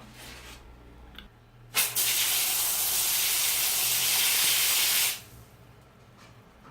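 Pet shower head spraying water in a steady hiss that starts abruptly about two seconds in, runs for about three seconds, then cuts off sharply.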